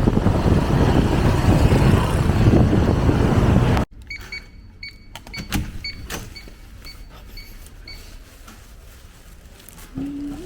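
Loud, steady rumble of a vehicle ride, cut off abruptly about four seconds in. It is followed by quiet room tone with a few soft clicks and a run of faint, short, evenly spaced beeps.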